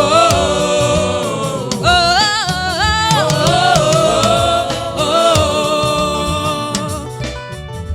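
Gospel worship singing in Yoruba: a voice holding long notes with vibrato over band accompaniment.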